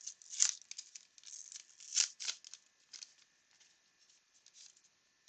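A 1989 Upper Deck baseball card pack being torn open, its wrapper crinkling in a run of short crackles, the loudest about two seconds in, then going mostly quiet.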